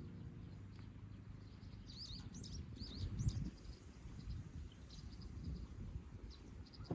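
Birds chirping: a quick run of rising-and-falling calls about two to three seconds in, then fainter chirps, over a steady low rumble of outdoor background noise.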